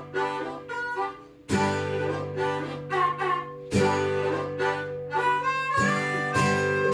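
Acoustic string instruments playing: strummed guitar chords, a new chord struck about every two seconds, with a fiddle line over them.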